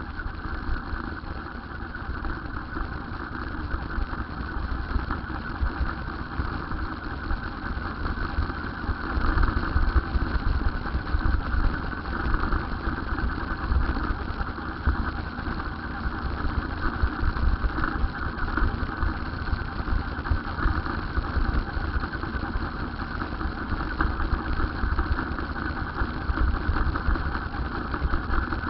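Steady riding noise: wind buffeting the microphone with a low, gusty rumble over an even rushing hiss.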